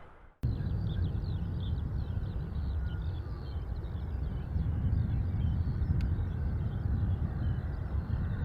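After a brief silence, a steady low rumble sets in, with many small birds chirping over it. There is a single click about six seconds in.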